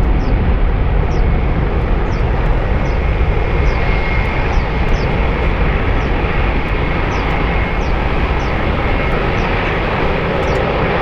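Jet airliner engines running with a steady, loud roar, a faint high whine sitting on top for a few seconds in the middle. Small high chirps repeat about one and a half times a second over it.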